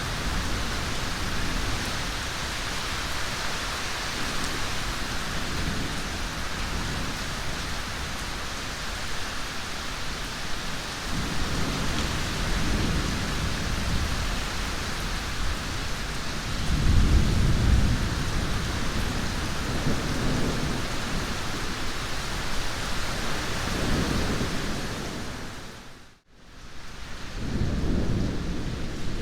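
Thunderstorm: steady rain hiss with rolling thunder rumbling again and again, loudest about two-thirds of the way through. The whole sound fades out for a moment and comes back near the end.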